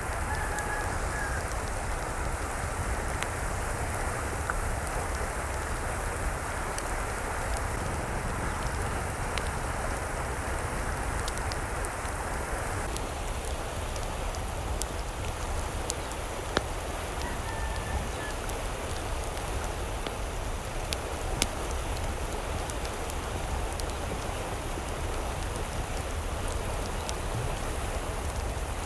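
Steady hiss of water falling, like rain on a surface, with scattered sharp drip clicks.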